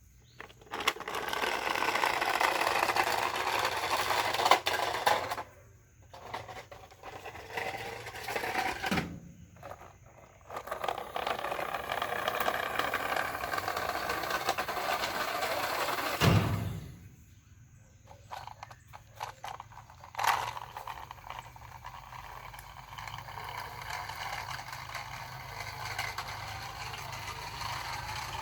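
Toy cars and trucks sliding and rolling down, their wheels making a steady scraping, whirring noise in runs of several seconds with pauses between, and a couple of sharp knocks.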